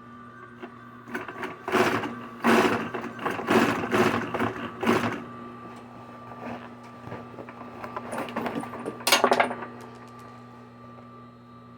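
Sewing machine stitching in several short runs, one after another, then once more briefly near the end, over a steady hum.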